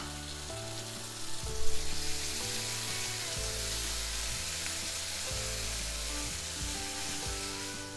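Chop masala sizzling in a hot nonstick frying pan as a spatula spreads and stirs it. The sizzle grows louder about a second and a half in. Background music plays underneath.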